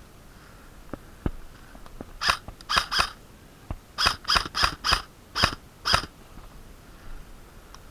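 Airsoft gun firing about nine single shots in quick succession, roughly three a second: three shots, a short pause, then six more.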